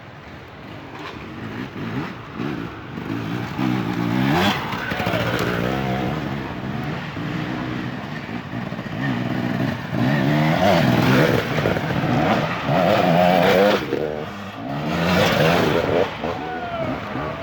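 Dirt bike engines revving, pitch rising and falling with throttle and gear changes, growing louder over the first few seconds and then staying loud.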